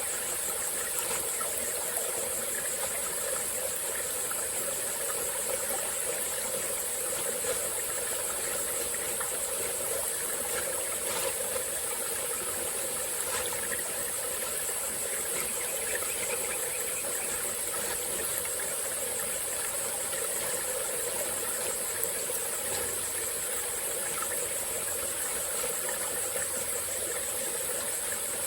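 Small forest stream flowing steadily over rocks, with a continuous high-pitched insect chorus over it.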